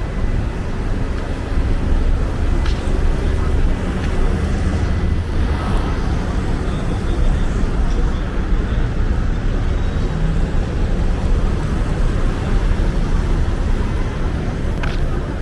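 Steady street traffic noise with a deep rumble, and two short sharp clicks, one about three seconds in and one near the end.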